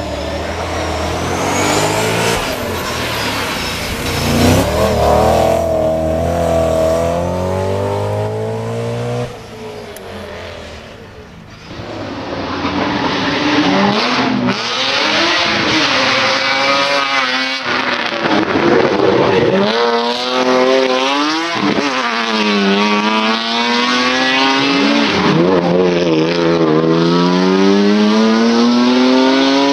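Racing car engines at high revs on a hill climb. A car accelerates through the gears and passes, then, after a break, another is heard revving hard with quick upshifts and blipped downshifts, its pitch rising and falling every second or two.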